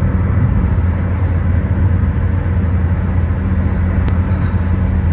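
Steady road and engine rumble heard from inside a car cruising on the highway, with one brief click about four seconds in.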